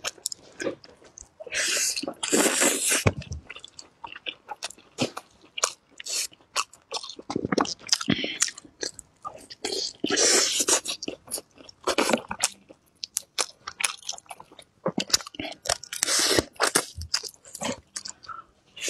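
Close-miked eating of steamed chicken: biting and chewing with quick wet clicks and mouth smacks, broken by a few longer noisy stretches about two, ten and sixteen seconds in.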